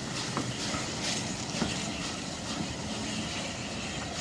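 Steam locomotive working, its exhaust beats coming about twice a second as faint rhythmic chuffs over a steady rushing noise.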